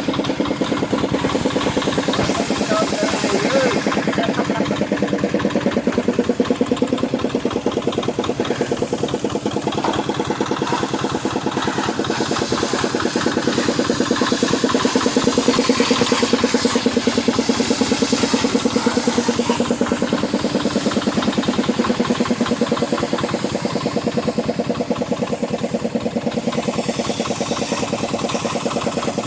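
A small motor running steadily with a fast, even pulsing beat, as from the water pump used to wash an air conditioner.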